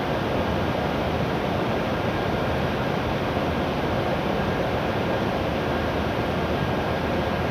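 Steady noise of an E7 series Shinkansen train standing at the platform with its doors open, its air-conditioning and onboard equipment running, with a faint high steady tone.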